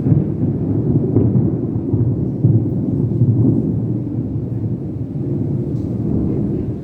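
Loud rolling thunder from an electrical storm, a deep rumble that swells and fades without a break.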